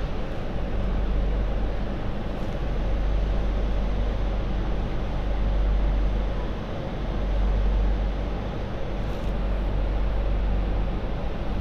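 MTR Light Rail Phase IV two-car train (cars 1128+1125) running along the track: a steady low rumble of wheels and running gear that swells slightly and eases back, with a few faint clicks.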